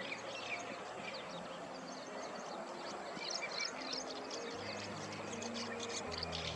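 Many small birds chirping and twittering, the calls growing busier about halfway through, over soft background music of held low notes.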